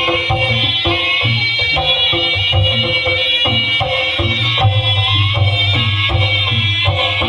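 Javanese jaranan ensemble music accompanying a dance: steady drum beats under a held high-pitched melody line.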